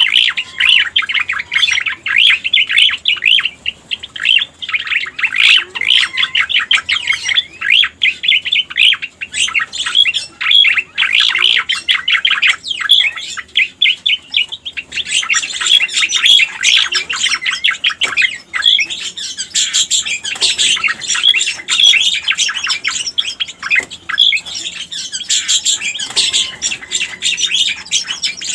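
Cica koreng (cucak koreng) song played as a bird-lure recording: a rapid, unbroken chatter of chirping notes, joined about halfway through by higher, thinner notes.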